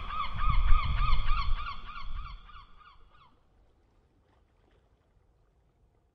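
A bird calling in a quick series of short, pitched calls, about four a second, over a low wind rumble; both fade out about three seconds in.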